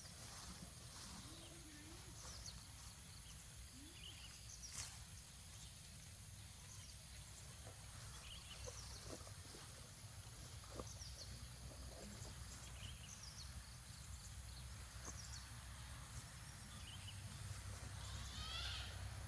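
Faint outdoor field sound while grass is cut by hand: a steady low wind rumble on the microphone, scattered short high chirps every second or two, and a few sharp snaps and rustles.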